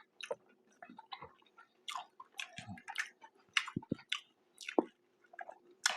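Close-up mouth sounds of a person chewing a burger: irregular wet smacks and small clicks of the lips and tongue, several each second.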